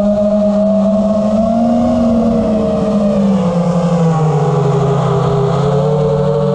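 FPV quadcopter's four brushless motors and tri-blade propellers whining together, a cluster of slightly different pitches that drift and glide down and back up as the throttle changes.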